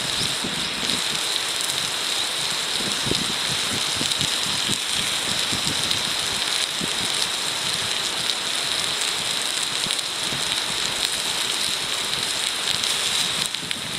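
Food sizzling in a hot wrought-iron frying pan: a steady, dense hiss with small irregular crackles.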